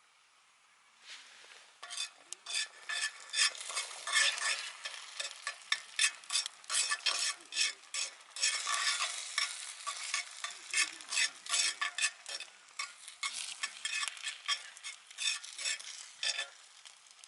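Food sizzling in a hot pan while being stirred, a metal utensil scraping against the pan in quick, irregular strokes that start about two seconds in.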